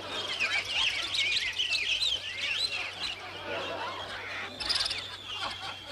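Many birds chirping and twittering together in quick overlapping calls, thickest in the first couple of seconds, with one long steady whistled note near the end.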